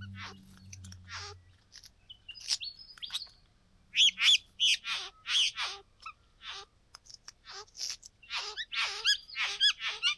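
Satin bowerbirds calling at their bower: a string of short, harsh calls, each dropping in pitch, coming in clusters, with the loudest run about four seconds in and another run near the end.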